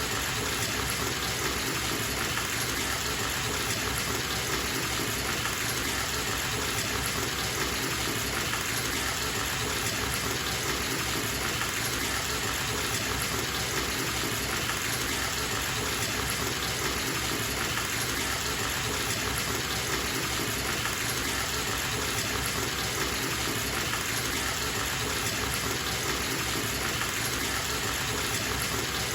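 Bathtub faucet running, a steady gush of water pouring into the tub.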